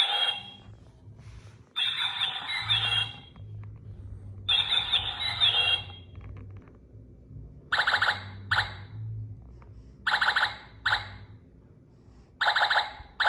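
Singing bird clock playing a recorded bird song through its small speaker. It repeats a call phrase of about a second, three times at first and then three more times, each followed by a short extra note.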